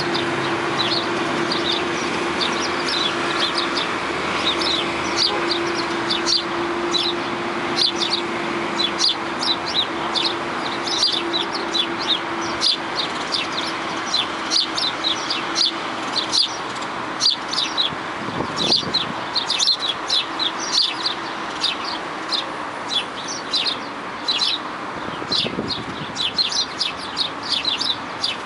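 A crowd of small birds chirping, with many quick, high chirps overlapping throughout. A steady low hum runs underneath and fades out about halfway through.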